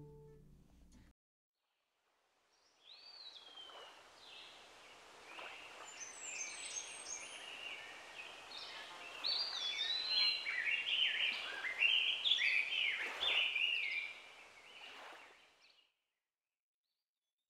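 Songbirds chirping and singing, many short calls and whistled glides overlapping, fading in about two and a half seconds in, swelling, then fading out near the end. In the first second the last of a distorted electric guitar dies away.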